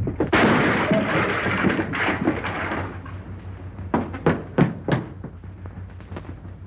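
Scuffle sound effects: a sharp knock, a loud noisy rush lasting about two and a half seconds, then a quick cluster of knocks and thuds about four to five seconds in.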